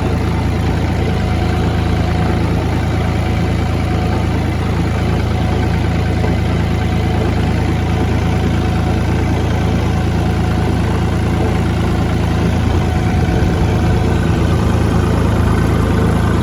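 A motor vehicle engine idling steadily, getting slightly louder in the last few seconds.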